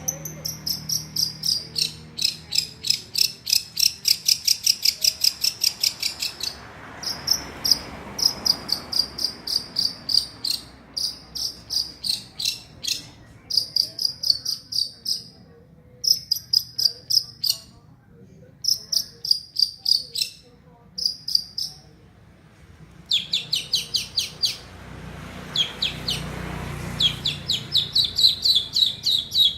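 Long-tailed shrike (cendet) singing a lovebird-like chatter: rapid runs of sharp, high chirps, about five a second, broken by short pauses.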